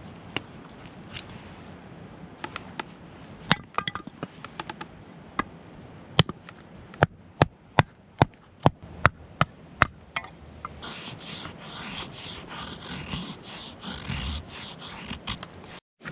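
A series of sharp knocks, scattered at first, then steady at about two or three a second. Then a few seconds of scraping and rustling, which cuts off suddenly near the end.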